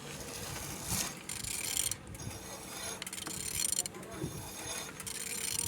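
A removed engine being turned over by hand at the crankshaft, with intermittent mechanical clicks as its internals rotate. It turns freely, showing the engine is not seized.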